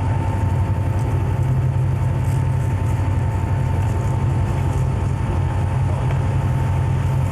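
Steady drone of a diesel freight locomotive running, heard from on board. A thin, constant higher hum sits over the low engine rumble.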